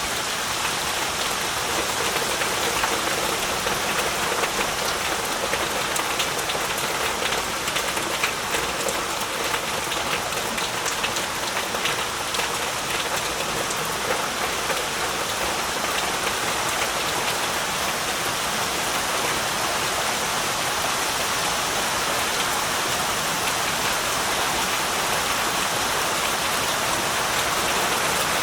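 Heavy rain falling steadily, a dense hiss of drops striking surfaces with many fine individual patters.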